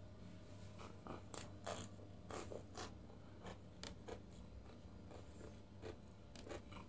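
Close-miked chewing of crisp fried flatbread: faint, irregular crunches and mouth clicks.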